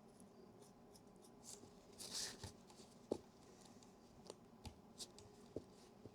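Faint scratching and rubbing as the corroded battery compartment is scrubbed clean with alcohol. A short scratchy rub comes about two seconds in, a sharp click about a second later, and a few light ticks of the tool against the metal follow.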